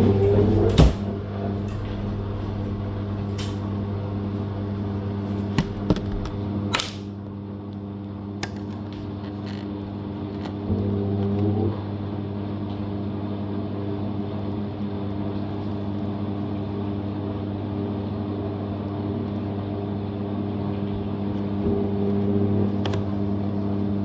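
Living & Co 5.5 kg top-loading washing machine's motor running with a steady hum, driving the drum through the wash cycle, with a few sharp clicks along the way. The hum stops at the very end.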